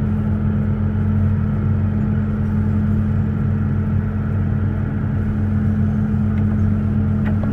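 A large engine running steadily at constant speed, a low, even drone.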